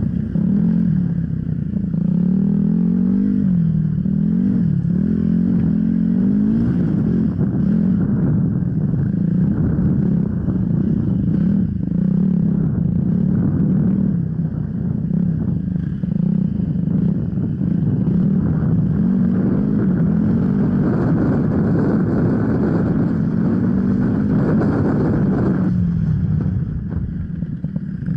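Off-road enduro motorcycle engine running under constantly changing throttle, its pitch rising and falling. The engine note drops back for about two seconds near the end.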